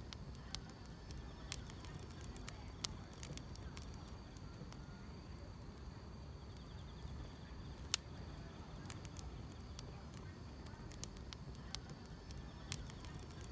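Wood fire crackling, with irregular sharp pops (one louder snap about halfway through) over a low steady rumble, while grass insects trill faintly in the background.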